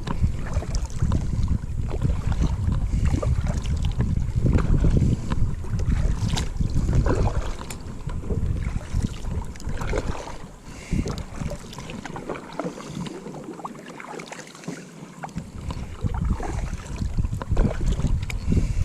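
Wind buffeting a small action-camera microphone on a kayak, a heavy low rumble, with scattered small knocks and clicks from the boat and gear. The wind rumble dies away for a few seconds about two-thirds of the way through, then returns.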